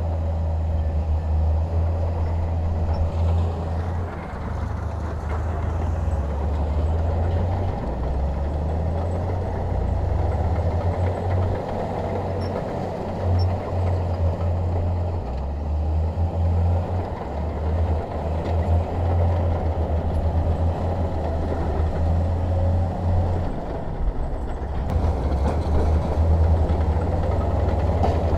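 Bulldozer's diesel engine working under load: a heavy low drone that keeps surging and easing, over a continuous mechanical rumble.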